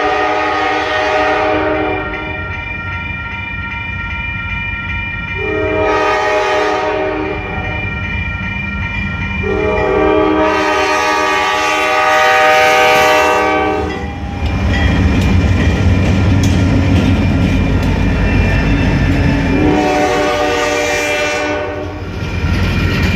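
Freight train's diesel locomotive horn sounding four long blasts, one already going as the sound begins. About two-thirds of the way in, a heavy low rumble of the locomotive and train grows louder as it passes close by.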